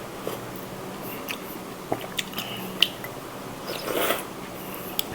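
Close-miked mouth sounds of a person eating spicy seafood instant noodles: chewing with scattered sharp lip smacks and clicks, and a longer wet sound about four seconds in.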